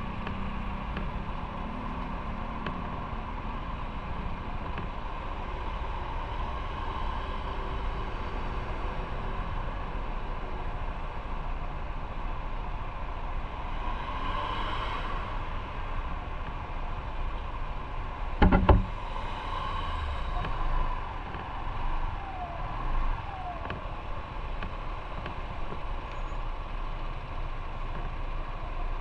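Motorcycle riding in traffic: steady engine and road rumble, with a sharp knock about two-thirds of the way through and a couple of brief hissing swells.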